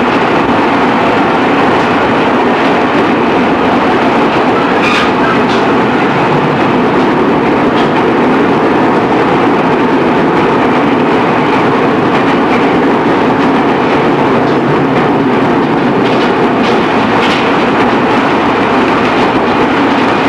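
Running noise inside a JR East E217 series train's motor car, fitted with Mitsubishi GTO-VVVF drive, travelling at a steady speed. A constant rumble of wheels on rail is broken by a few faint clicks from rail joints.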